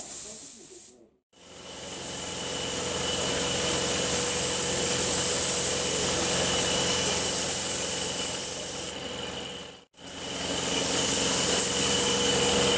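Air paint spray gun hissing as pearl colour coat is sprayed onto a car's side step. The hiss starts about a second in, cuts off briefly near ten seconds as the trigger is released, then resumes.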